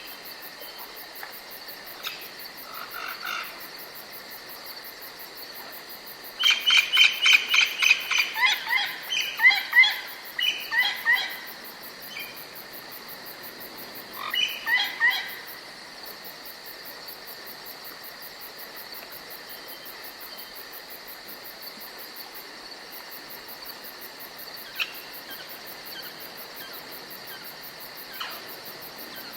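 Forest ambience: insects chirring steadily throughout while a songbird sings a loud, fast run of notes that steps down in pitch about a quarter of the way in. A shorter phrase follows about halfway, with a few single calls scattered later.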